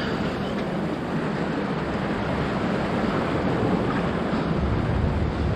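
Ocean surf washing steadily on a beach, with wind buffeting the microphone in a low rumble that grows stronger near the end.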